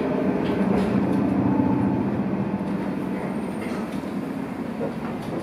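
Gakunan Railway electric train running, heard from on board: a steady low hum and rumble of the motors and wheels on the rails, with a few faint clacks, slowly getting quieter.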